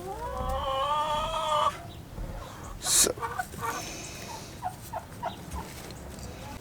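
Turkey hens calling: one long, slightly rising call, then a sharp click about three seconds in, followed by several short clucks.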